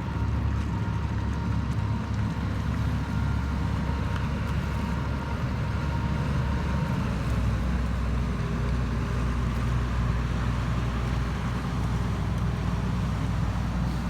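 Ferryboat engine running with a steady low rumble, its low tone shifting slightly about halfway through.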